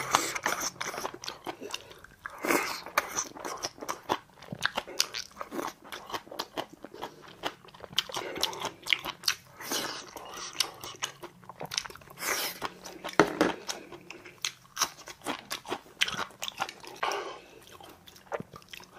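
A person chewing and crunching food close to the microphone: irregular crunches, bites and mouth smacks, kimchi and fresh greens being eaten.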